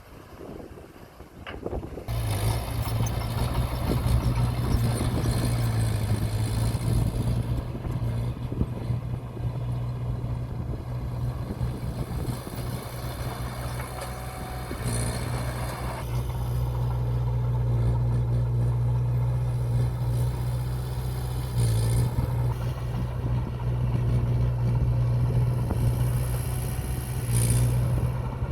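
Diesel engine of heavy earthmoving machinery running steadily under load, a low, even drone that becomes loud about two seconds in. A few brief hisses sound over it.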